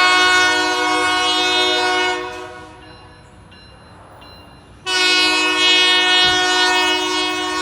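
Diesel locomotive's multi-chime air horn sounding two long blasts, the second starting about five seconds in, with a quieter pause between them.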